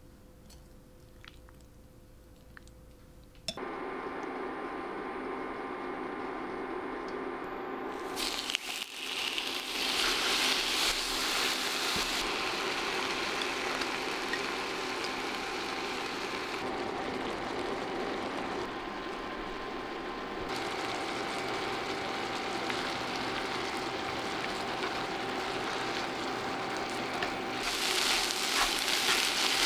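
Thinly sliced marinated beef and onions frying in a nonstick pan: a steady sizzle with crackles and a faint steady hum underneath. It starts after a few quiet seconds and grows louder about nine seconds in. It rises again near the end as chopsticks stir the meat.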